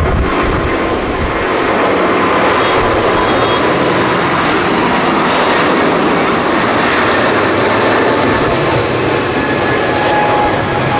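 Jet airliner's engines during a takeoff or landing, a loud steady rush of noise.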